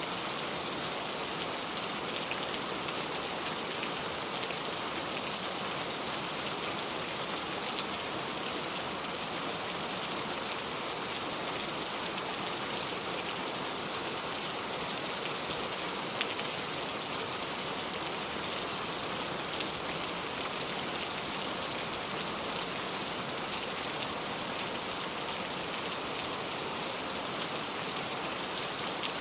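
Heavy rain pouring steadily, a dense even hiss with many fine drop patters on a surface.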